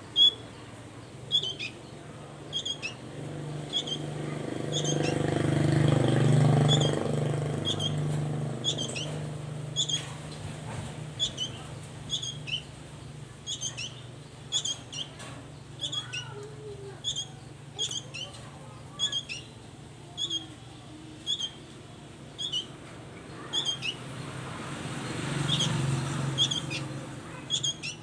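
A songbird giving short, sharp, high chirps over and over, a little more than one a second. A vehicle passes twice, as a low rumble that swells and fades about six seconds in and again near the end.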